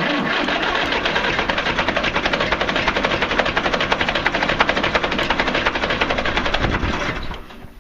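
International B275 tractor's diesel engine being cranked by its starter motor for about seven seconds without catching, then the starter stops. A hard cold start: the owner suspects water in the fuel.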